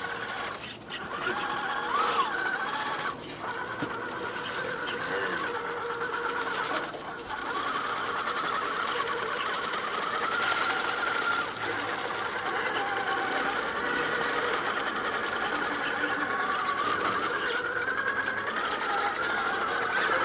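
Small electric motor and gear drive of an RC rock crawler whining as it crawls over rock, the pitch wavering as the throttle changes, with brief drops near a third and halfway through.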